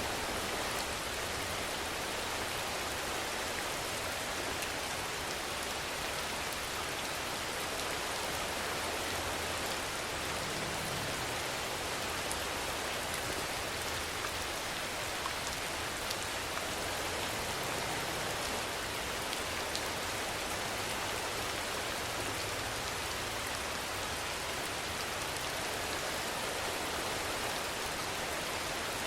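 Steady rainfall: an even, unbroken hiss of rain with scattered individual drops ticking on a surface.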